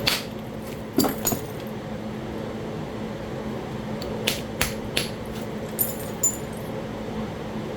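Knapping blows on a piece of Talahata quartzite: about eight short, sharp clicks of stone struck while flaking it, coming in small clusters, with a steady hum of a fan or air conditioner underneath.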